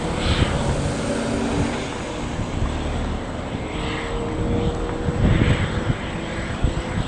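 Aircraft noise: a steady low rumble with a faint steady whine from jet engines or an auxiliary power unit, with wind buffeting the microphone.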